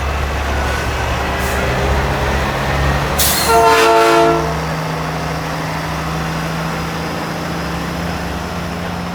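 Diesel engines of custom Peterbilt semi trucks running steadily, with one air horn blast of about a second, a chord of several tones, about three and a half seconds in.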